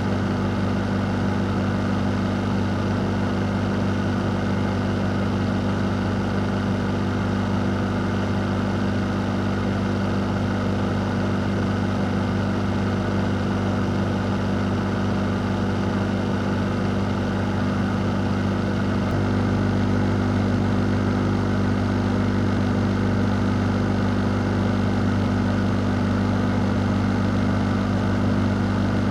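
Electric fan running steadily: a constant rush of moving air over a low motor hum, growing slightly louder about two-thirds of the way through.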